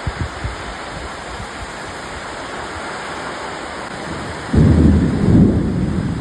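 Rain falling steadily with an even hiss. About four and a half seconds in, a sudden deep rumble breaks in and becomes the loudest sound.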